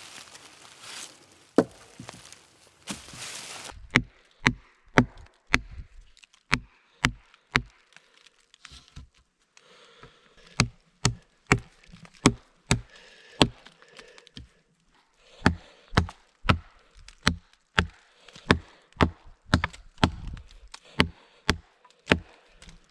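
Wood being chopped with a blade: a steady run of sharp strokes, about two a second, with a couple of short pauses.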